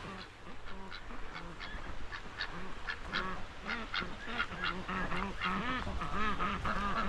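A flock of ducks quacking, with many short overlapping calls that grow busier toward the end.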